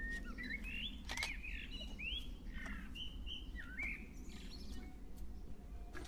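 A songbird singing in short, high chirps and quick whistled glides for about the first four seconds, over a steady low background rumble.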